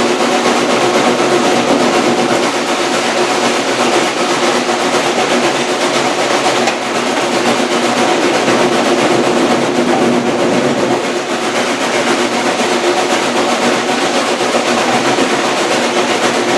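Passenger train running along the track, heard from on board: a steady, dense rumble and clatter of wheels on rail with no letup.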